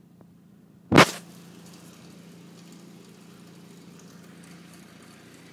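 A sharp knock about a second in, then a steady hiss of rain and water over a low, steady hum.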